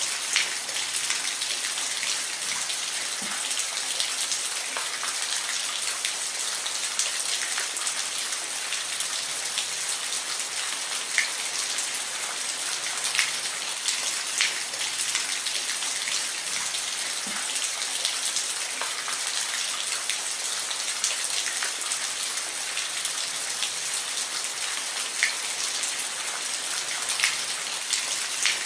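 Steady rain falling on a surface, an even hiss with the sharper ticks of single drops scattered through it.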